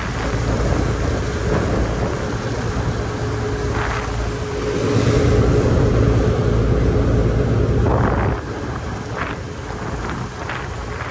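Car ferry's engines running with a steady low drone, under wind buffeting the microphone and a wash of noise from the rough sea. The wind-and-water noise swells louder for a few seconds in the middle.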